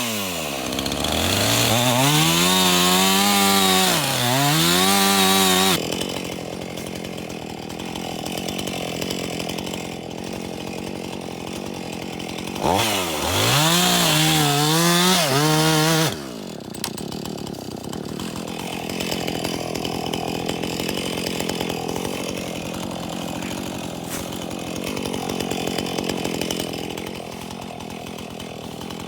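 A Husqvarna Rancher two-stroke chainsaw running at high revs, its pitch dipping and recovering several times. It drops suddenly to idle, revs up again for about three seconds around the middle, then settles back to a steady idle.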